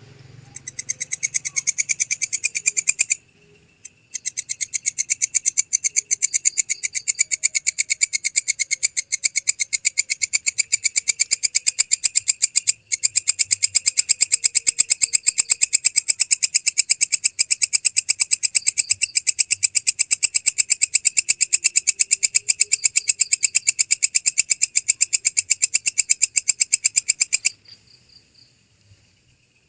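Walang kecek (belalang kecek) katydid calling: a loud, rapid, even train of high chirping pulses. It breaks off for about a second near the start and drops to a faint trill near the end.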